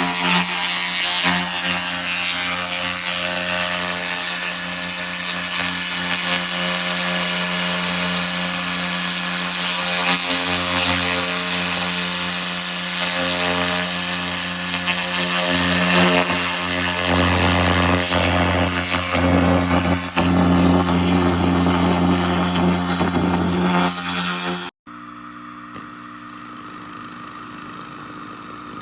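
SFX 2000 laser rust remover blasting rust off metal, a steady crackling hiss over the machine's hum. About 25 seconds in it cuts off suddenly, leaving only a lower steady hum.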